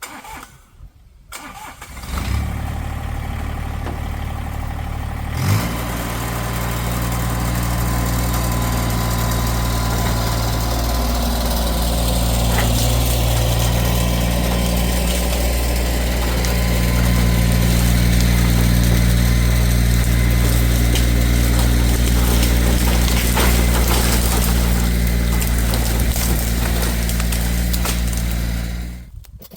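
Tractor engine starting about two seconds in and then running steadily at a low idle, stopping near the end.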